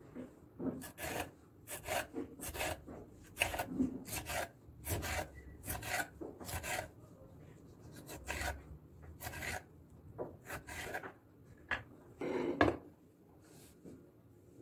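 A series of short scraping strokes, about one or two a second, followed by one longer stroke near the end.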